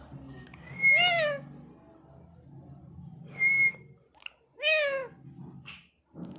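Indian ringneck parakeet calling: three short calls about a second and a half apart. The first and last rise and fall in pitch, and the middle one is a brief steady whistle.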